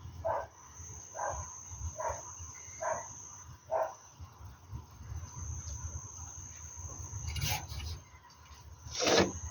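A dog barking repeatedly, about one bark a second, for the first four seconds, then one louder single sound near the end.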